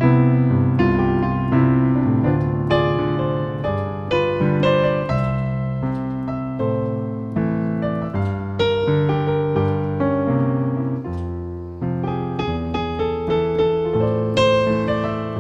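Piano playing a solo instrumental interlude: a steady run of sustained chords and melody notes, each struck and left to ring and fade, with no voice.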